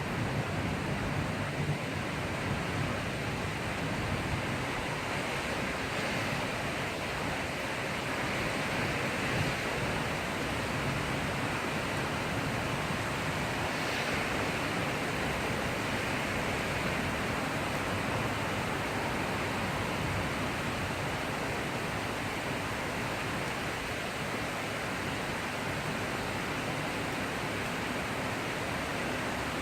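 Heavy rain falling steadily in a thundery shower, an even rushing hiss with no thunder.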